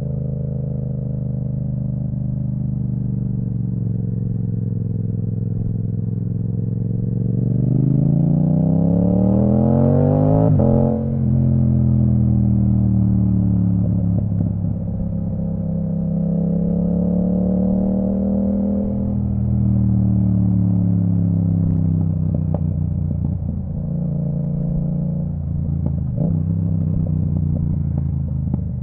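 2022 Yamaha MT-07's parallel-twin engine through an Akrapovic full titanium exhaust with the dB killer removed, heard while riding. It holds a steady cruise, then revs up for about three seconds and drops sharply in pitch at a quick upshift about ten seconds in, after which the engine speed rises and falls gently, with a few short cracks near the end.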